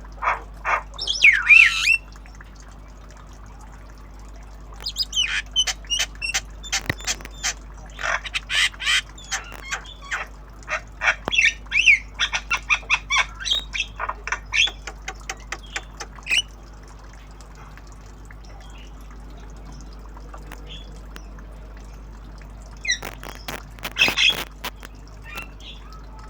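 Javan myna calling in bursts of rapid, harsh squawks, chatters and clicks, with pauses of several seconds between the bursts. The longest burst runs from about five to sixteen seconds in.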